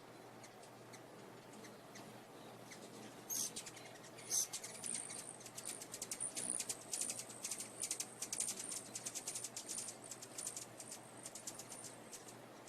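A small bird giving a rapid series of very high-pitched chirps, several a second. The chirps start about three seconds in and die away near the end, over a faint steady low hum.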